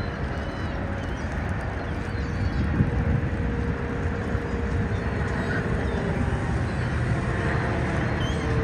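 A steady low outdoor rumble, like traffic or wind, with a faint held drone joining about halfway through. Faint high gull calls come a few times early on.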